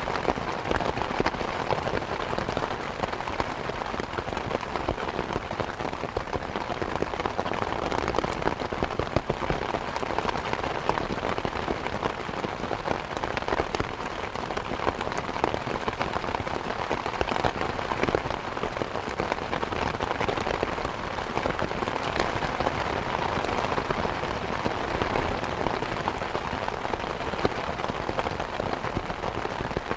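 Steady rain falling on surfaces, with the close patter of many individual drops over a continuous rushing hiss.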